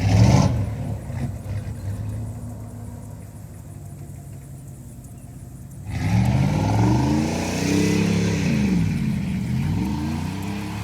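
A loud thump right at the start, then a Chevy Z71 pickup's engine running steadily and quietly. About six seconds in it turns louder, revving and accelerating with the pitch rising and falling several times.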